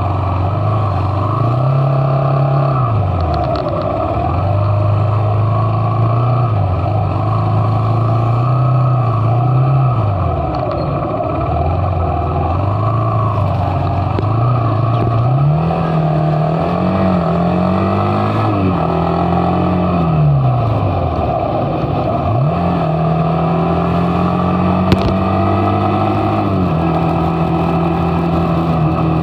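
Motorcycle engine running while riding along, its pitch repeatedly climbing, holding and dropping back as the throttle opens and closes through gear changes, over a steady rush of wind and road noise.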